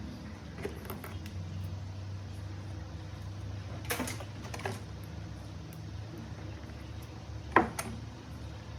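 A steady low hum with a few scattered light clicks and knocks; the loudest, sharpest knock comes near the end.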